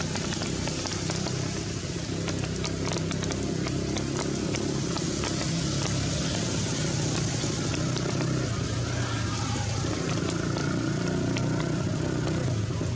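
Heavy rain falling steadily, with many individual drops ticking sharply close by, over a constant low rumble.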